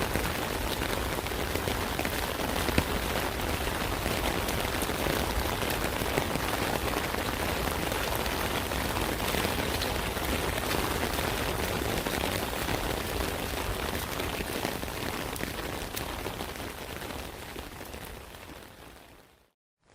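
Steady rain falling on an umbrella: a dense hiss of rain with many sharp individual drop hits on the canopy, fading out over the last few seconds.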